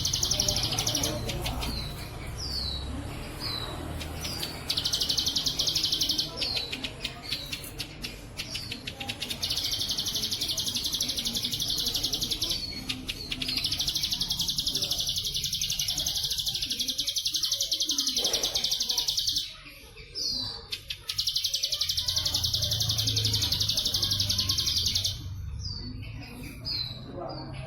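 Ciblek sawah (a prinia) singing its 'bren' song: long, very rapid buzzing trills, each several seconds long, alternating with short downward-slurred chirps.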